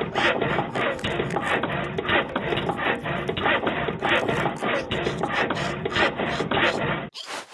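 Rhythmic rasping strokes, about four to five a second, like a file, sandpaper or small saw worked back and forth. The sound changes abruptly near the end, where similar strokes carry on.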